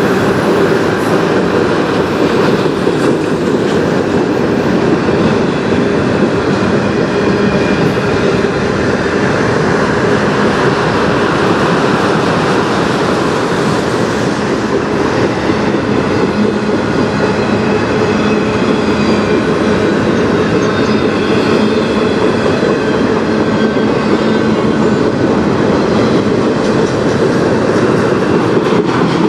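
Freight train of autorack car carriers rolling past close by: loud, steady noise of steel wheels on the rails and rattling cars. Faint high-pitched wheel squeal joins about halfway through.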